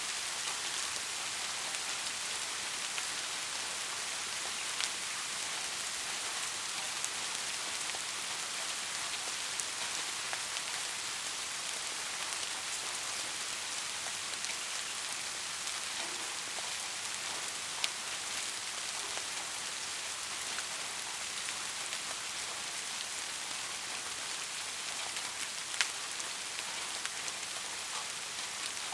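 Steady rain falling, an even hiss with a few louder single drop ticks now and then.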